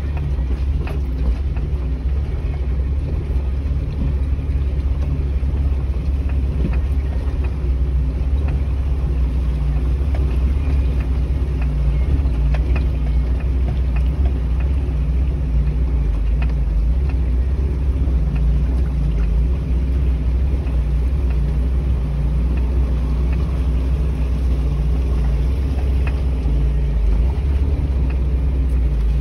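Four-wheel-drive vehicle's engine running steadily at low revs as it crawls through a shallow river crossing, heard from inside the cab as a deep rumble.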